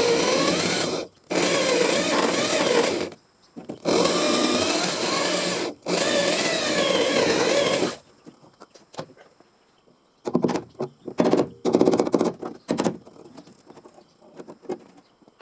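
Handheld electric power tool working sheet metal, run in four spells of one to two seconds each with its pitch wavering under load. Over the second half it comes on only in short, irregular bursts.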